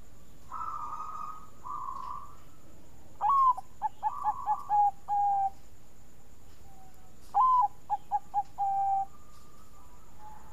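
Zebra dove (Bangkok-type perkutut) cooing: soft notes at first, then two full song phrases about four seconds apart, each opening with a swooping note, running into a quick string of short coos and ending on a held lower coo.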